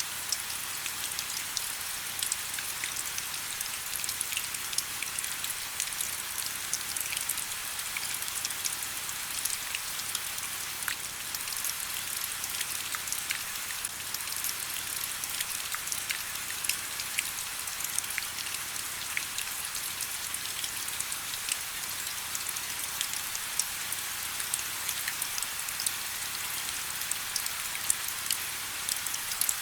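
Steady rain: an even hiss with many individual drops landing as short, sharp ticks over it.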